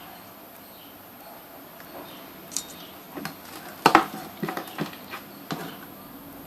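Light clicks and clatter of small hard objects being handled, a scattered run of about a dozen, loudest about four seconds in.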